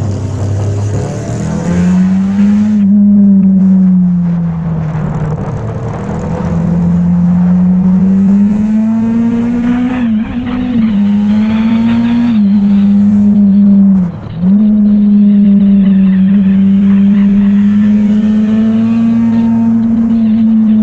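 Motorcycle engine running while riding, its pitch rising and falling with the throttle. There is a brief sharp drop in pitch and loudness about two-thirds of the way through.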